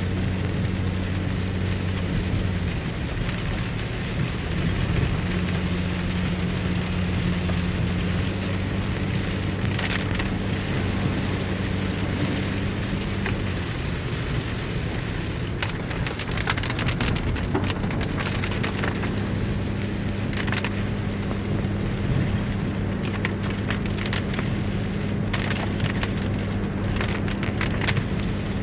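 Car driving in the rain: a steady engine drone that shifts pitch a few times, under the hiss of rain and tyres on a wet road, with scattered ticks and taps in the second half.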